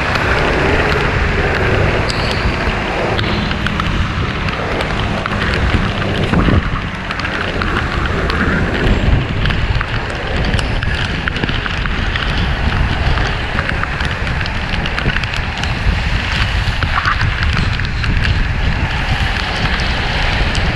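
Steady wind noise buffeting the microphone of a moving bicycle, over a hiss of wet-road and traffic noise.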